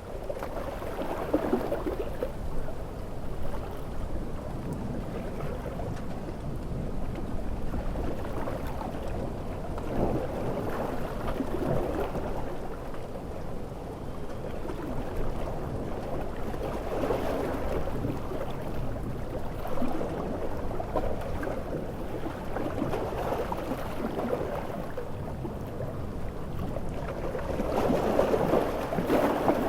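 Storm-surf ambience: large ocean waves breaking in swells every several seconds over a constant rush of water noise. The loudest swell comes near the end.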